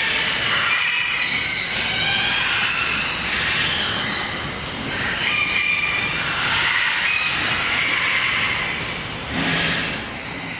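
Many small birds chirping and squeaking over one another in a steady, busy chatter of high calls.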